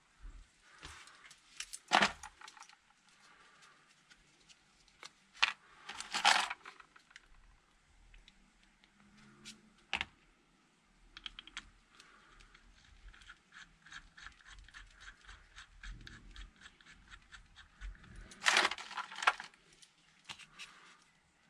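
Metal hand tools and small caliper parts clinking and clicking during brake caliper reassembly, with a run of quick, even clicks in the middle and louder clattering bursts about two, six and nineteen seconds in.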